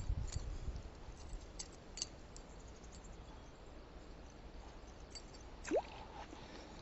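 Faint, scattered small clicks from fishing tackle being handled, with a low rumble in the first second and a short rising squeak near the end.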